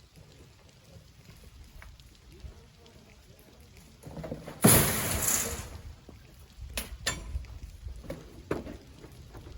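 A load of sand thrown into a truck bed: a sudden rush of pouring grains about halfway through that lasts a second or so, followed by a few sharp knocks.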